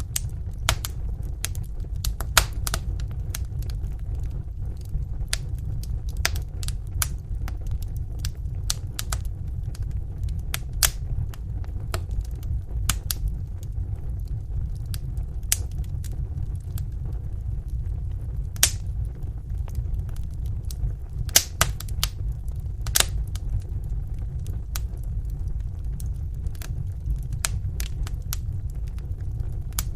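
Fire in a fireplace crackling: irregular sharp pops and snaps, a few louder than the rest, over a steady low rumble.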